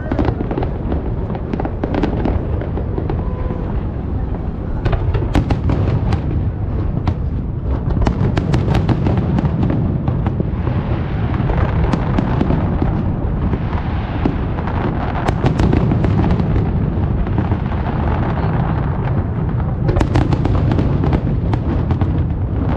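Fireworks display: a steady low rumble of shell bursts with many sharp cracks, coming in dense crackling clusters several times.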